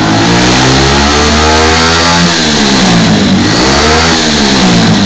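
110cc minibike engine revving. Its pitch climbs for about two seconds, drops back, then rises and falls again twice in shorter blips.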